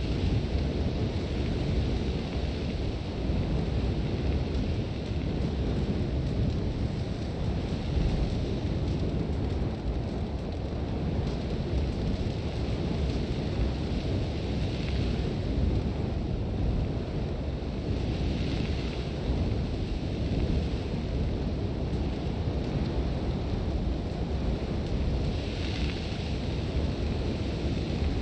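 Sandstorm: strong wind with a steady low rumble, and a few swells of hissing blown sand, the clearest about halfway through and near the end.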